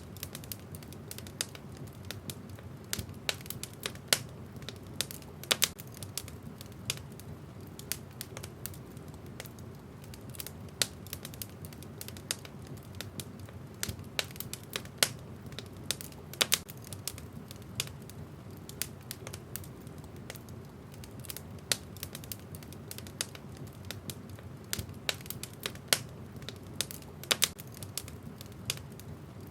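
Wood fire crackling in a fireplace: irregular sharp snaps and pops, several a second, with a few louder ones scattered through, over a low steady background.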